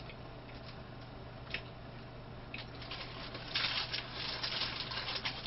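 Close-up chewing and soft, wet mouth sounds of someone eating a soft cream cake topped with toasted meringue. Scattered small clicks, with a denser, louder stretch of squishy chewing about three and a half seconds in.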